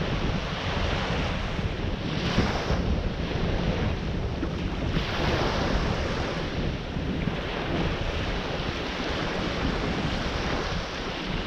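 Ocean surf washing onto the shore, swelling louder about two seconds in and again about five seconds in, with wind rumbling on the microphone throughout.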